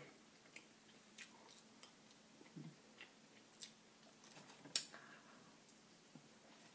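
Faint close-up chewing of a spicy chicken sandwich: scattered soft mouth clicks and smacks, the loudest a little under five seconds in.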